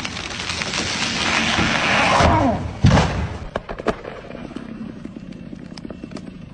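A felled tree coming down: a rushing swish that builds for about two seconds as it falls through the air and branches, then a heavy thud as it hits the ground about three seconds in, followed by a few sharp cracks of snapping wood.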